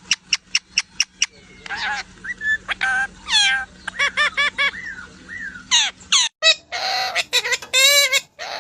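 Parrot calling: a run of short sharp calls at about four a second, then whistles and gliding, pitched calls. After a brief break about six seconds in, harsher screechy calls follow.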